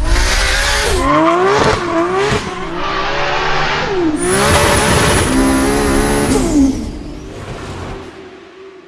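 Big single-turbo Toyota Supra 2JZ inline-six revving hard, its pitch climbing and dropping sharply several times. A high steady whistle joins in the middle and falls away, then the engine fades out near the end.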